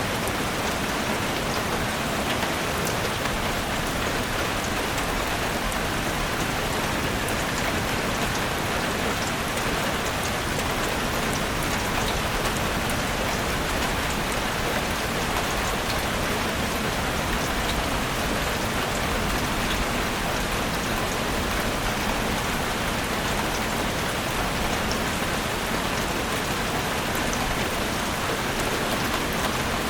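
Steady rain falling in a forest, an even hiss with scattered drops ticking.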